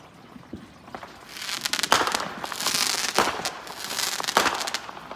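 Fireworks going off: quiet at first, then from about a second in a long stretch of crackling, with several sharp bangs among it.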